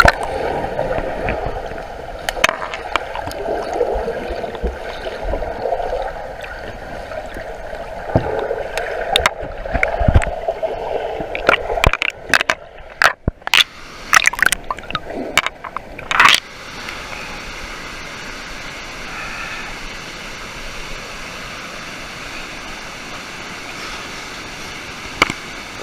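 Water gurgling and sloshing close around a camera as a swimmer moves through a flowing pool, with a cluster of sharp splashes and knocks in the middle, then a steady rush of flowing water.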